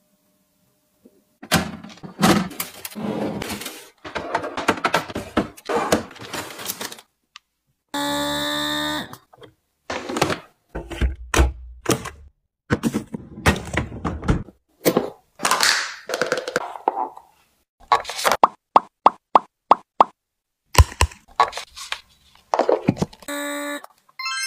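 Items being handled while restocking a fridge: a run of short clicks, knocks and plops of containers and packaging being set down and opened, with rustling between them. A brief steady tone sounds about eight seconds in, and a quick string of sharp clicks comes near the end.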